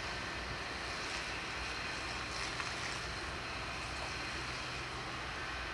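Fire engines running steadily with their engines and pumps, a constant low hum under a steady hiss; a faint click about two and a half seconds in.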